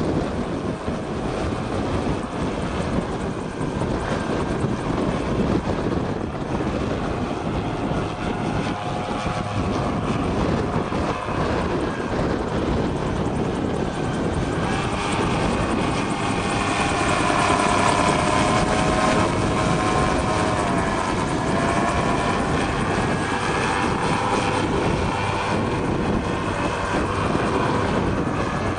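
MT-03 gyrocopter's engine and pusher propeller running under a steady rushing noise. About halfway in, a whining engine tone comes up and wavers up and down in pitch as the power changes.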